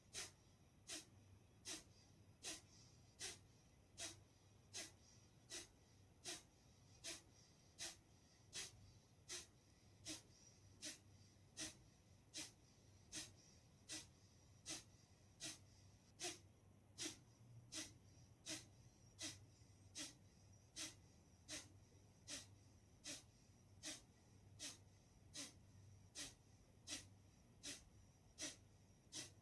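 Kapalbhati breathing: short, forceful exhalations through the nose, repeated at an even rhythm a little faster than one a second.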